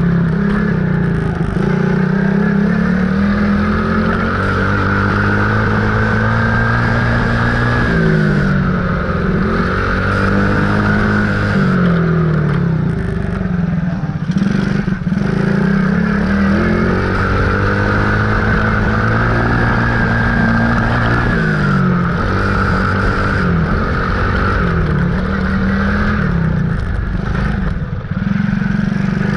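Dirt bike engine running while being ridden, its pitch climbing and dropping again and again as the throttle is opened and backed off.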